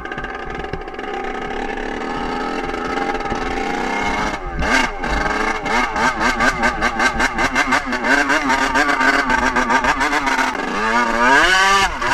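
Dirt bike engine running steadily, then dropping off about four seconds in. It revs repeatedly after that, its pitch rising and falling quickly, and dips and climbs again near the end.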